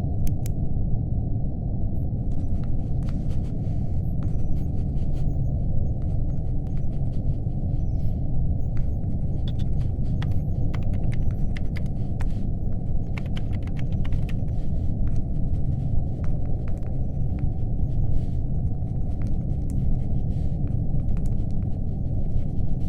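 Steady low rumbling hum of a spaceship-interior ambience, with irregular light clicks of laptop keyboard typing starting a couple of seconds in.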